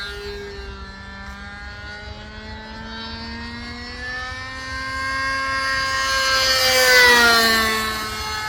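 Engine of a radio-controlled Hot Canary model biplane in flight, its pitch and loudness climbing slowly to a peak about seven seconds in as it passes close, then the pitch falling away.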